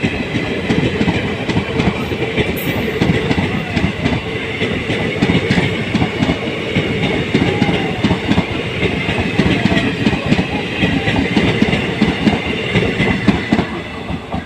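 Passenger train coaches rolling past close by, their wheels clattering rapidly over the rail joints over a low rumble. The clatter eases off near the end.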